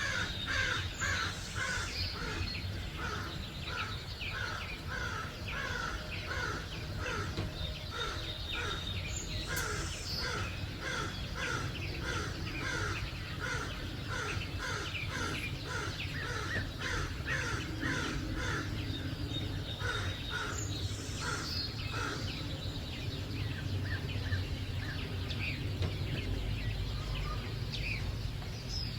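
Early-morning birds calling and singing. One bird repeats a short call more than once a second for most of the first twenty seconds, over higher chirps and a low steady background rumble.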